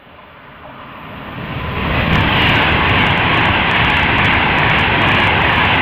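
Class 390 Pendolino electric train passing at speed close along the platform. Its rush of noise builds over the first two seconds to a loud, steady din as the carriages go by, with a crackle of short clicks through the loudest part.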